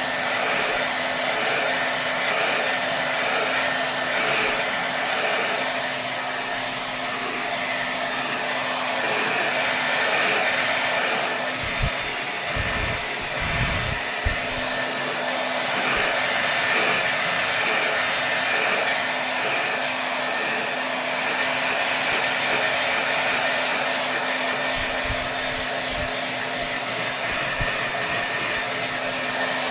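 Hair dryer blowing on its highest setting, a steady rush of air over a motor hum, swelling and easing slowly in loudness. A few brief low thumps come about halfway through and again near the end.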